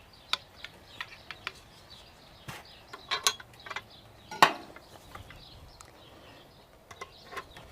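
Scattered sharp clicks and knocks of a large screwdriver and metal corner brackets as the glass surround panels of a gas fire table are fastened together, the loudest knock about halfway through.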